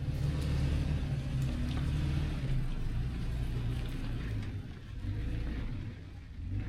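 Toyota Tacoma pickup driving, with a steady low engine and road rumble and a few light ticks and rattles. The rumble eases off briefly about five and six seconds in.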